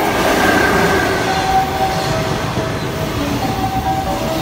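JR Freight EF66 electric locomotive hauling a container freight train passes close by at speed. It is loudest as the locomotive goes by at the start, then the container wagons keep running past with a steady rolling rush.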